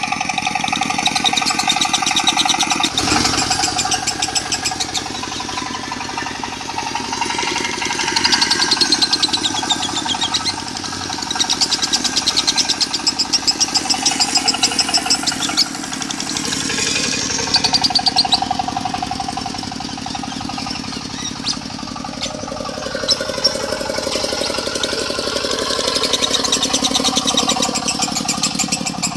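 Lovebird chattering song in the rapid 'konslet' style, mixed over a diesel engine running. The fast, buzzy chatter swells and fades every few seconds above the engine's steady hum.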